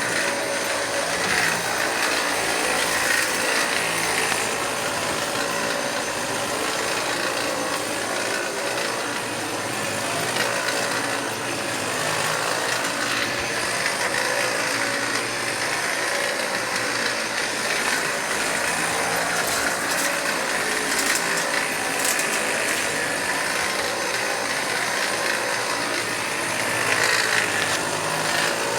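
Vacuum cleaner running steadily, an even motor and airflow noise with a faint steady whine.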